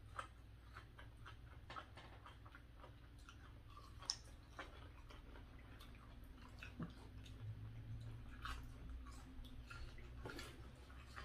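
Quiet chewing close to the microphone as roasted okra is eaten: soft wet mouth clicks and smacks, with one sharper click about four seconds in.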